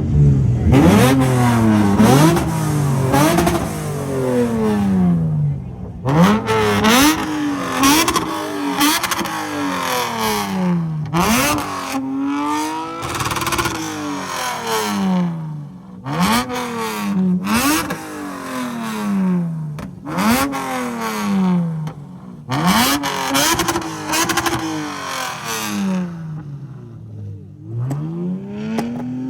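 A car engine with a loud aftermarket exhaust being free-revved again and again. Each rev climbs quickly and then falls back slowly, one after another every few seconds.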